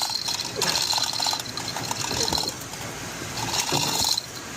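Rigging paying out as a heavy motor is lowered: a fast mechanical rattle that comes and goes in three bursts.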